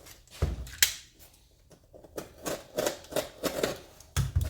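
A hood-strut package being opened and unpacked by hand: a run of sharp clicks, taps and rustles, with a low thump about half a second in and another near the end.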